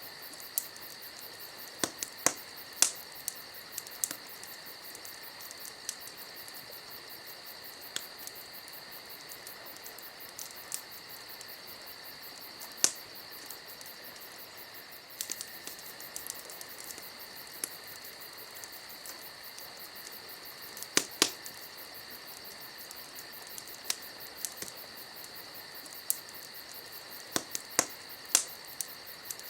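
Wood fire crackling: irregular sharp pops and snaps, several in quick clusters, over a steady high-pitched trill.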